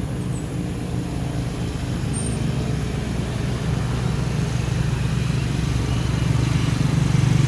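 Jet airliner engines on a takeoff run, a steady low rumble growing louder toward the end.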